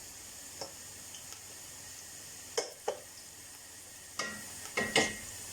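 Chopped onions frying in oil in a pan, a steady sizzle, with a spoon scraping and knocking against the pan several times, loudest near the end. The onions are frying to golden brown.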